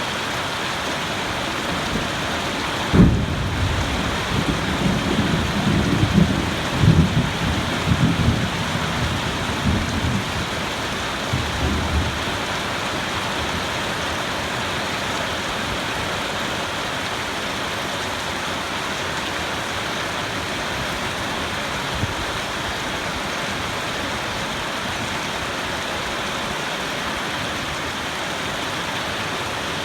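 Steady rain with a thunderclap about three seconds in, followed by a low, uneven rumble of thunder that dies away about nine seconds later.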